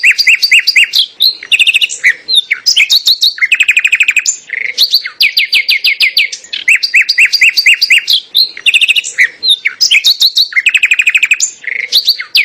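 A songbird singing: rapid trills of repeated whistled notes, phrase after phrase, cutting off suddenly at the end.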